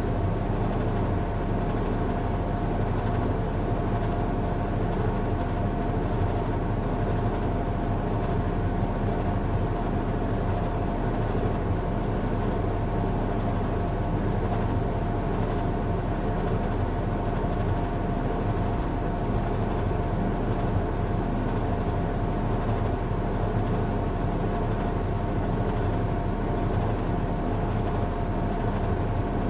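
Washing machine running on a strong cycle: a continuous, even machine hum with a steady whine, with no breaks or changes.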